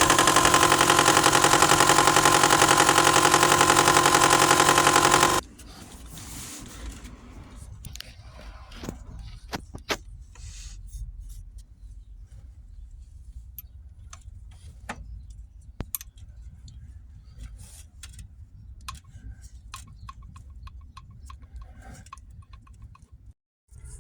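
Subaru 2.5 EJ engine running with a loud, steady whine and a fast, even rattle, the sound of a bad timing belt tensioner. About five seconds in it cuts off abruptly, leaving a faint low hum with scattered clicks.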